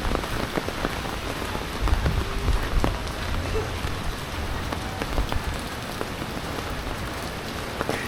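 Heavy typhoon rain falling steadily, with many separate drops pattering sharply on surfaces close by.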